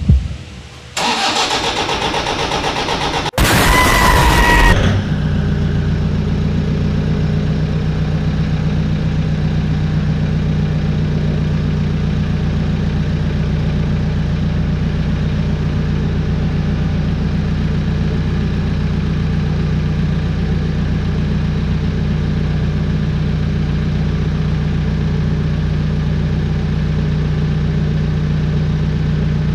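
2007 Toyota Hilux engine cranked on the starter for a couple of seconds, catching with a louder burst and then settling into a steady idle. This is its first start after the intake manifold and EGR were cleaned and refitted.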